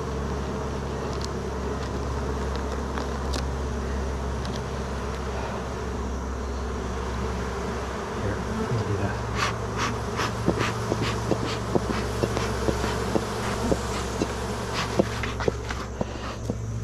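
Honeybees buzzing in a steady, loud hum around an open hive, the pitch stepping up a little about halfway through. In the second half, a scatter of sharp clicks and taps sounds over the buzzing.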